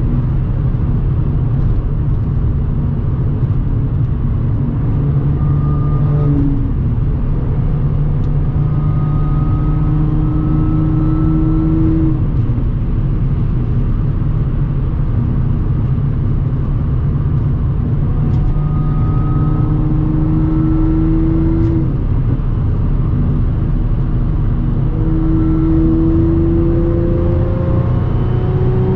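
Audi S4 B8.5's supercharged 3.0-litre V6 running through an AWE exhaust with test pipes, a steady drone at cruise. Its pitch climbs slowly three times, around 8–12 s, 18–22 s and 25–28 s, and drops back each time.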